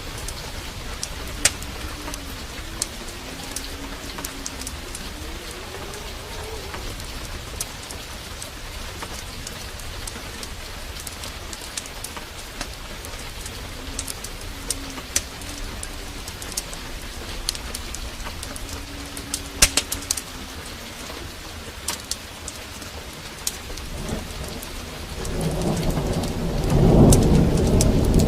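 Steady heavy rain with scattered sharp crackles, the pops of a wood fire in a fireplace. A low rumble of thunder builds about 24 seconds in and peaks near the end.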